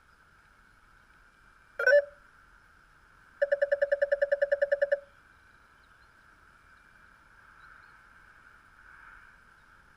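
Electronic beeps from a Blade 350QX quadcopter powering up before flight: one short beep about two seconds in, then a fast run of about ten beeps a second lasting a second and a half, over a faint steady hiss.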